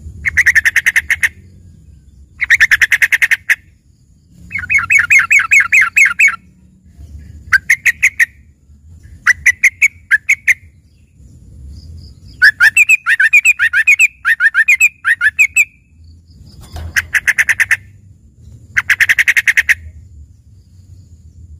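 Yellow-vented bulbul (trucukan) singing loud phrases of rapid, trilled notes, about one burst every two to three seconds. This is a learned fill-in song that resembles a green leafbird's.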